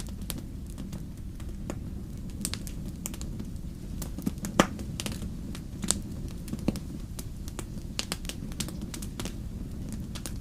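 Wood fire crackling in a fireplace: irregular sharp pops and snaps, one louder pop about halfway through, over a steady low rumble.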